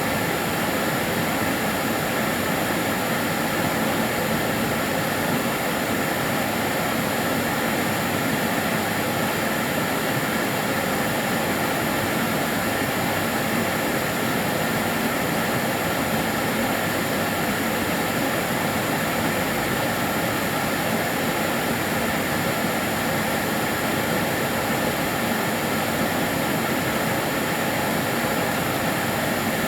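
Karcher DS 6 Premium water-filter vacuum cleaner running steadily: an even whooshing hum with a faint high whine that does not change.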